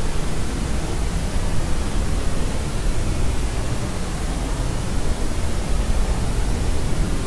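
Steady synthetic noise, an even hiss with more weight in the low end, like pink noise, unchanging throughout.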